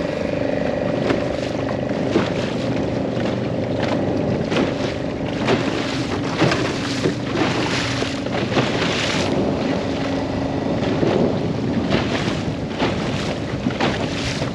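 A small fishing boat's motor running steadily under way, with gusts of wind rushing over the microphone.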